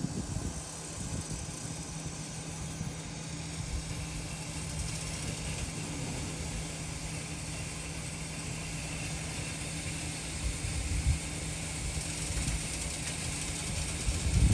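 Raypak P-R336A-EN-C gas heater running: a steady low hum with a constant low tone over a rumble and a soft hiss.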